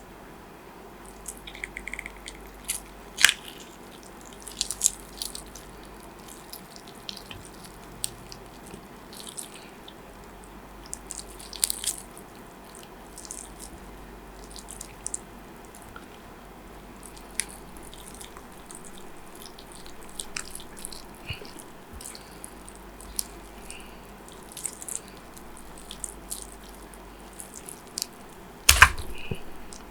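Close-miked eating sounds: chewing with wet, sticky mouth clicks and small crunches, scattered and irregular. Near the end there is one heavier knock.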